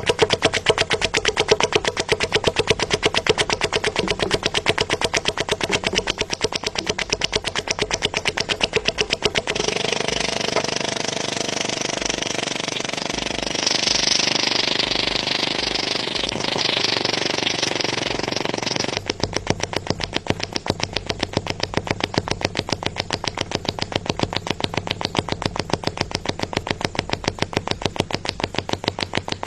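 An engine running with a rapid, even pulsing. About ten seconds in, the pulsing gives way to a steady rushing noise for around ten seconds, then the pulsing resumes.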